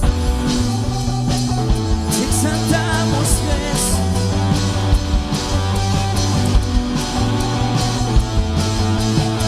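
Full rock-style worship band playing an instrumental intro: drum kit, bass guitar and electric guitar, coming in all together suddenly at the start with a steady beat.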